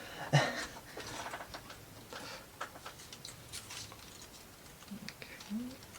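Scattered light clicks and taps of thin plywood model parts being handled and pressed together.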